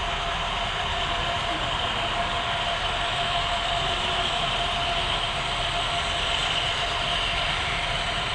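HO scale model train running on the layout: a steady hum and rolling noise that holds evenly throughout.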